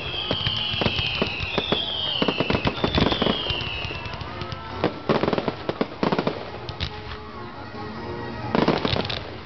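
Fireworks finale: a dense run of bangs and crackling reports, with four high whistles in a row, each falling slightly in pitch, over the first four seconds. Heavier bursts come at about five and six seconds and again near the end.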